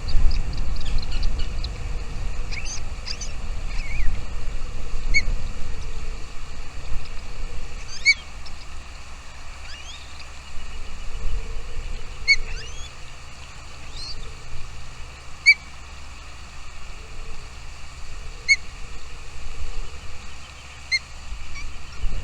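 Small bird calling in short, repeated chirps about every three seconds, with thin rising call notes in between, over a loud low rumble.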